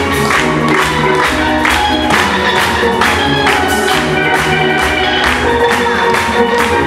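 Steel-drum band playing live: many pans ringing out the melody and chords over a steady beat.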